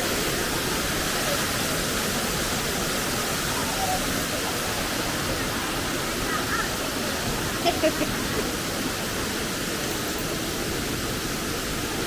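Waterfall rushing, a steady, even roar of falling water, with a few faint voices briefly a little past the middle.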